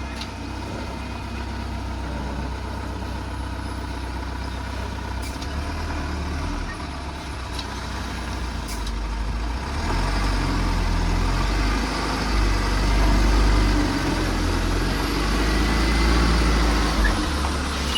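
Diesel engine of a loaded Bharat Benz truck running, getting louder about ten seconds in as it works harder, then easing off near the end.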